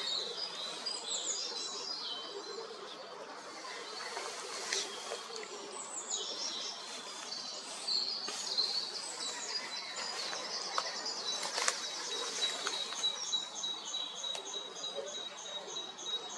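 Several wild birds singing and chirping together. In the last third a thin steady whistle holds under an evenly repeated high note.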